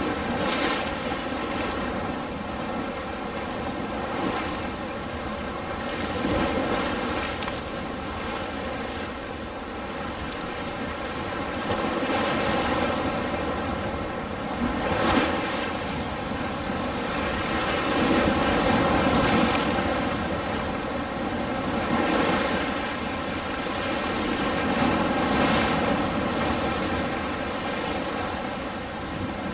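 Ocean waves on a shore: a steady wash of surf that swells and eases every few seconds, with a few sharper breaks.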